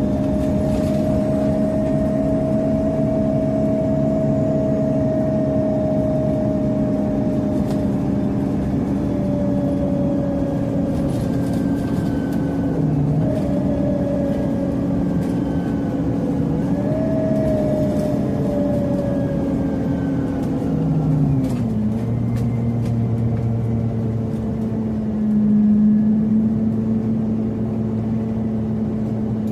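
Scania CN270UB CNG city bus heard from inside the cabin while riding. The drivetrain whine slowly falls in pitch and jumps back up twice. About two-thirds through, the engine note drops to a lower, steady hum.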